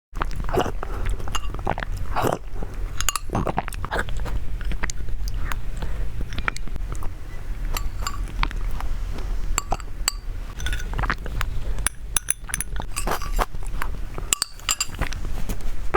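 Close-miked eating: chewing and biting, with frequent small clicks and clinks of utensils against a dish.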